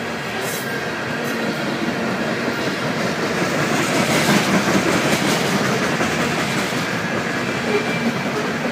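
Covered grain hopper cars of a freight train rolling past, with steady wheel-on-rail noise and clickety-clack. The noise swells a little about halfway through.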